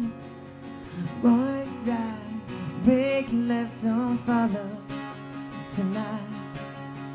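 A man singing over a strummed guitar in a live performance: a quieter guitar passage at first, then sung phrases from about a second in, with the strumming going on underneath.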